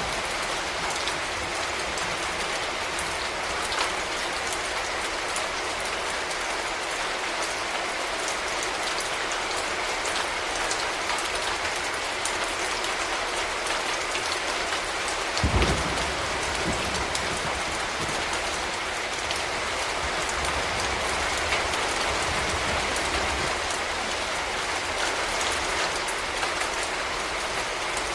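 Steady rain falling, with individual drops ticking on a hard surface. About halfway through, a brief low rumble swells and fades over a couple of seconds.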